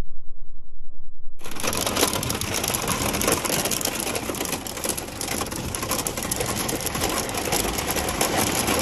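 Hail pelting down: a dense, rapid clatter of hailstones striking hard surfaces, starting abruptly about a second and a half in after a muffled low sound.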